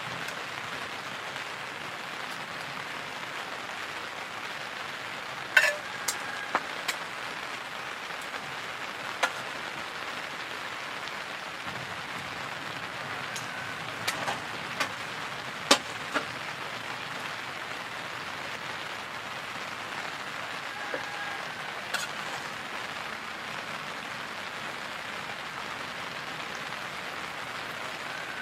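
Steady rain falling, with a few sharp, louder drops striking scattered through it.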